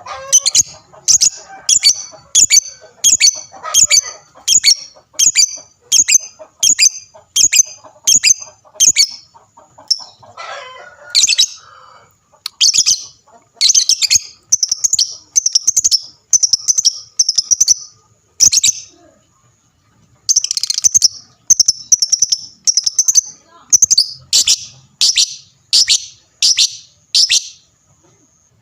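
Lovebird singing 'gacor': a long string of loud, shrill, evenly spaced chirps, about two a second, broken by a couple of short pauses.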